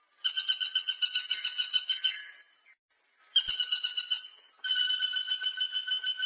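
Woodpecker calling in rapid trilled runs of evenly spaced, sharp pitched notes, about eight a second. One long run is followed by a short one and then another long one.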